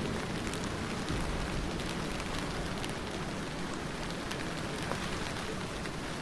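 Steady rain falling, a dense even hiss with many small drops pattering on a surface and no thunder.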